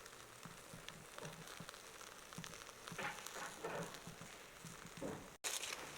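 Faint crackling and sizzling from a charcoal fire, with small scattered clicks. The sound drops out for a moment near the end and comes back with louder, sharper crackles.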